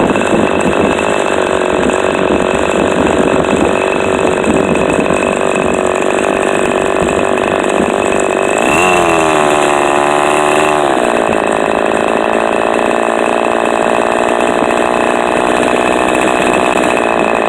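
Fox .45 two-stroke glow model engine swinging an APC 10x6 propeller on its first run, running steadily at speed. About nine seconds in it revs higher for a couple of seconds, then settles back to its earlier speed. It runs well.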